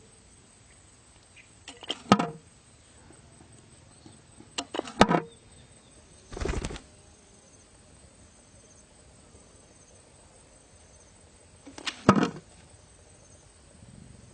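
Sharp snapping impacts, each a quick cluster of cracks with a short ringing tail: one about two seconds in, one about five seconds in and one near twelve seconds, with a duller half-second thump between the second and third.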